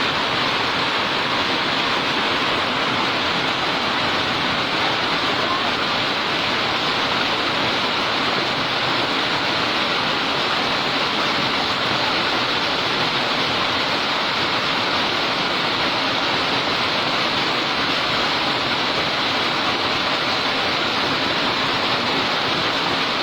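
Hail and rain pelting down in a dense, steady hiss of countless impacts.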